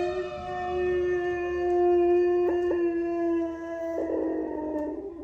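A dog howling: one long, steady held note that dips slightly in pitch near the end.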